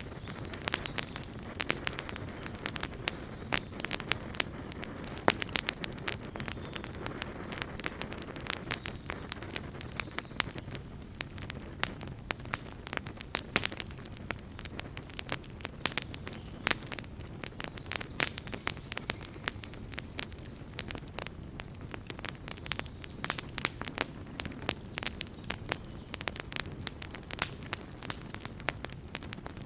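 Wood campfire burning, with a steady low rumble of flame and frequent irregular crackles and pops.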